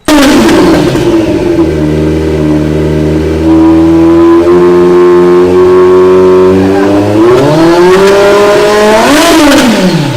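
Kawasaki Z900 inline-four with a TTF aftermarket exhaust starting up with a sudden loud burst. It settles into a steady idle, is revved up about seven seconds in, then gives a sharp blip that rises and falls near the end.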